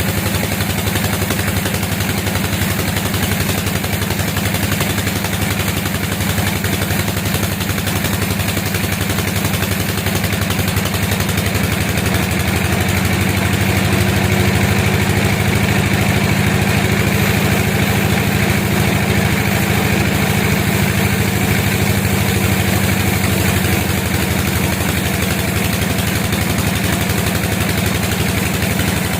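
Sawmill machinery running steadily: a loud, low engine-like drone with a fast, even pulse that holds without a break.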